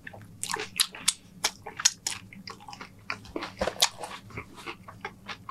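Close-up chewing of a mouthful of loaded nachos: irregular crunching and crackling of tortilla chips, several crunches a second.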